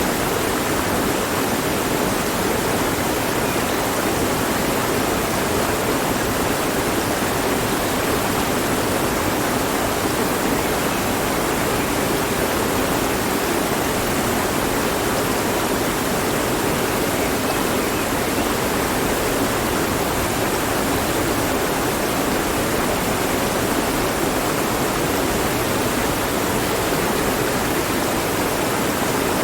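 Mountain stream flowing over rocks: a steady, even rush of water with no changes.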